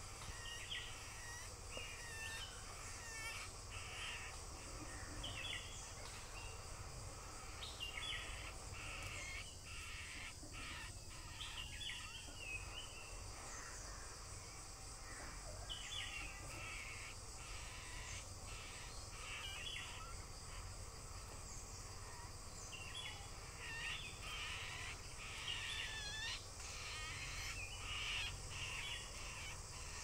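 Birds calling in the forest: short harsh calls with quick pitch slides, coming in clusters through the whole stretch. Behind them is a steady high hiss, like insects, and a low rumble.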